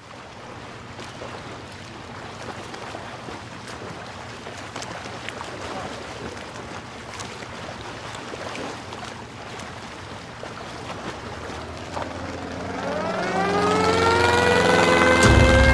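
Steady wind-and-surf noise, then about twelve seconds in an air-raid siren winds up, its pitch rising and levelling off as it grows louder; a low hum joins near the end.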